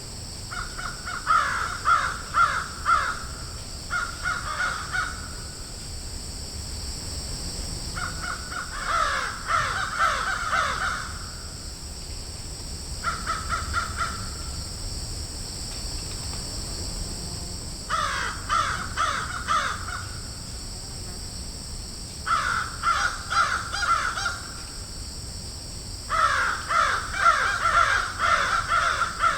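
Crows cawing in bouts of rapid repeated caws, several calls at a time with short gaps between bouts, over a steady high-pitched background hiss.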